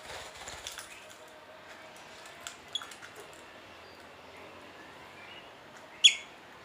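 Pet lovebird giving a few short, high chirps, then one loud, sharp chirp near the end.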